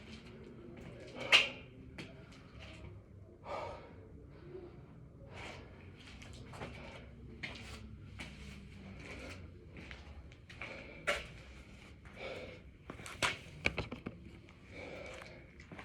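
A man breathing hard and fast while doing burpees, with a sharp exhale about every second and a few brief knocks among them.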